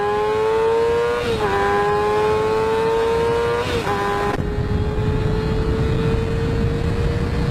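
A motorcycle engine accelerating hard at high revs, its high-pitched note climbing and then dropping sharply twice as it shifts up through the gears. After that the engine note fades under loud wind and road rumble.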